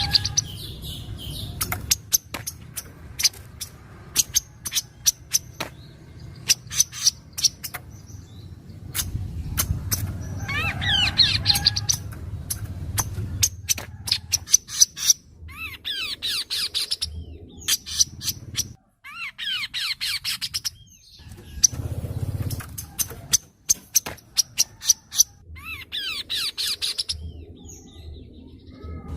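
Kaso-kaso bird in full song: runs of sharp clicking notes alternating with bursts of fast chattering notes every few seconds, over a low background hum.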